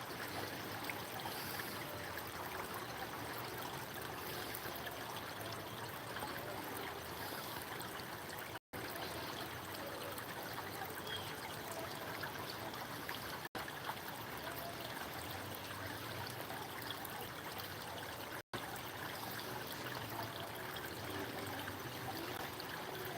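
Steady running water, an even rushing noise, cut to silence three times for an instant.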